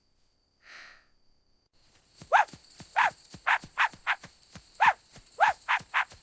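A soft sniff, then from about two seconds in a fast run of short, sharp animal calls, a dozen or more, each dropping in pitch, coming quicker near the end, over a faint high hiss.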